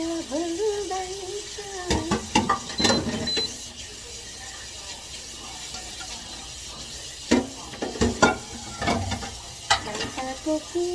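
Dishes and utensils clattering and clinking in a few short bursts, as in washing up at a sink, with a brief voice in the first second.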